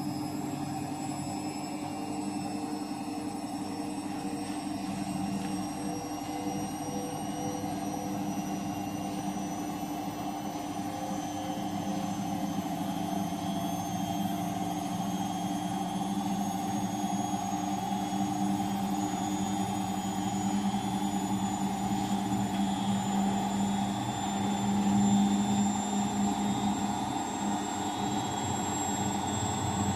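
Bosch Avantixx 6 front-loading washing machine running, its drum motor speeding up: a steady hum with a whine that rises slowly in pitch, getting a little louder towards the end.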